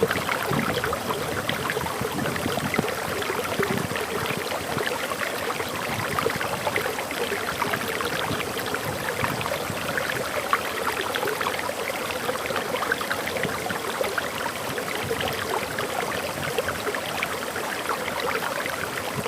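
Water flowing over a waterfall, a steady splashing rush with no break.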